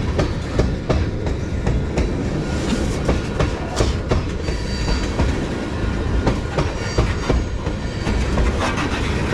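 Railroad cars of a long train rolling past close by, the wheels clacking over the rail joints in an irregular run of knocks over a steady rumble.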